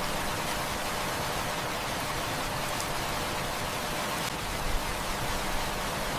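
Heavy rain falling steadily, an even hiss, with a few faint crackles now and then and a soft low thump about three-quarters of the way through.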